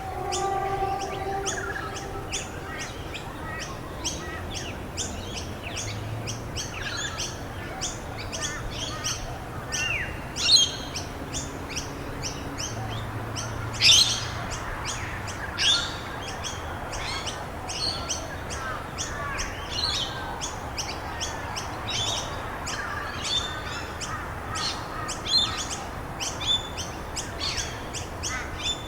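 Several wild birds chirping and calling continuously, with many short, high chirps. Two louder calls stand out, about ten and fourteen seconds in. A steady background hiss runs underneath.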